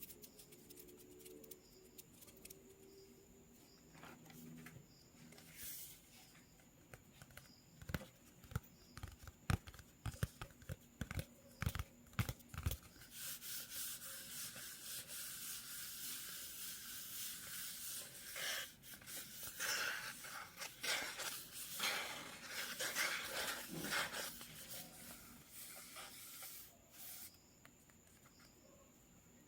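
Sketching on paper: a run of sharp taps about eight seconds in, then dense scratchy drawing strokes for most of the rest, easing off near the end.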